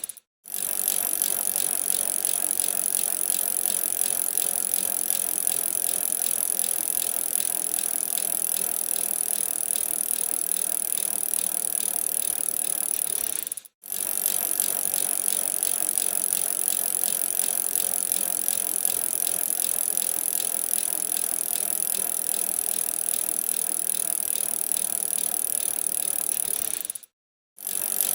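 Bicycle being ridden: a steady rattle of the bike and tyre noise on the road. The sound drops out to silence briefly twice, about halfway through and near the end.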